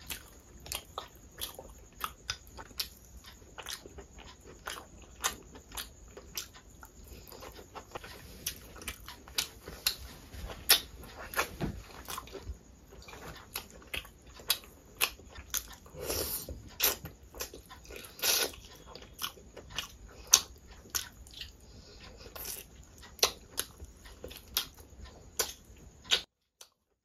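A person chewing and smacking while eating rice and curry by hand: a stream of sharp, wet mouth clicks at roughly two a second, with a short gap of silence near the end.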